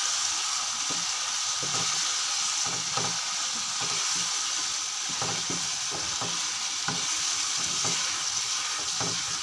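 Chicken and diced vegetables sizzling steadily in a hot wok while a wooden spatula stirs them, with frequent short scraping strokes against the pan.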